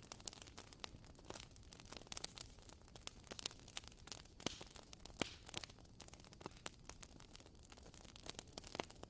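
WoodWick candle's wooden wick crackling as it burns: irregular soft pops and snaps, several a second, like a tiny campfire.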